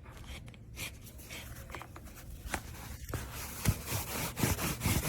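Scratchy rubbing and light ticking as a felt cage mat is handled, sparse at first and growing busier about three and a half seconds in.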